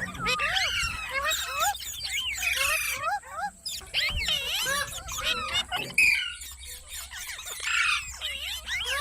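Parrot calling: a continuous run of short, squeaky squeals and chirps that rise and fall in pitch, several overlapping at times.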